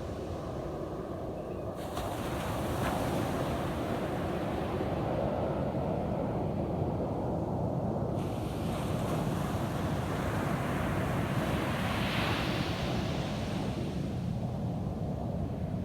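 Ocean waves breaking on a beach: one wave crashes about two seconds in, and another swells from about eight seconds in, washes up and fades near the end.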